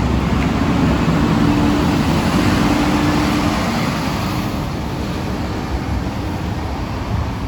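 Scania K230UB diesel city bus running, engine drone mixed with road noise. A steady whine sits over it for the first few seconds, then the sound eases off slightly.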